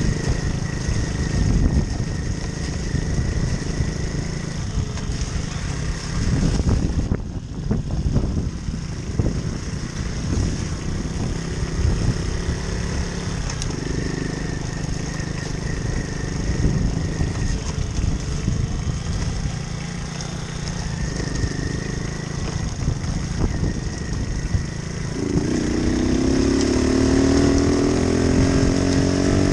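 Moped engine running while being ridden. Over the last few seconds its pitch climbs steadily as it accelerates.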